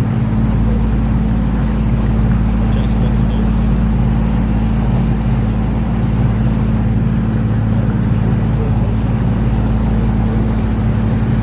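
Canal tour boat's motor running steadily while cruising, heard from on board: a constant low hum over an even wash of noise.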